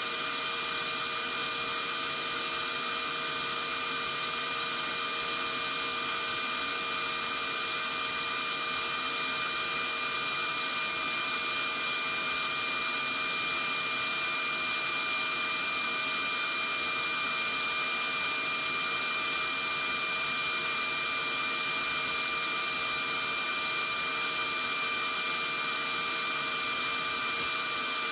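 Vacuum cleaner motor running steadily: a constant rushing hiss with several high, even whining tones above it, no change in speed.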